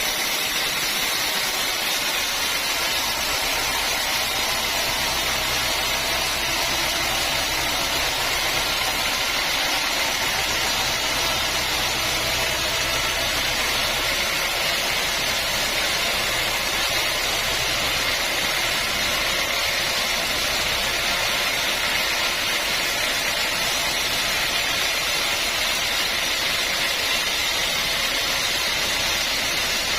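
Sawmill machinery running steadily, a constant hiss with a low hum under it that fades out about two-thirds of the way through.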